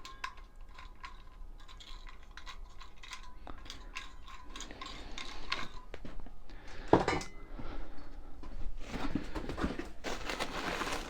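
Small metal parts and their plastic packaging being handled: light clicks and clinks, one louder knock about seven seconds in, and plastic crinkling near the end.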